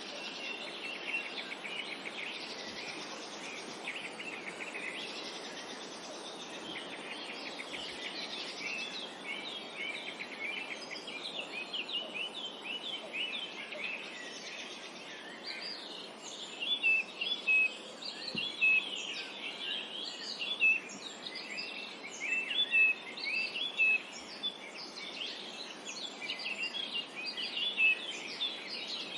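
Several songbirds chirping and singing together in a dense, continuous chorus over a steady background noise. The chirps grow louder and sharper about halfway through.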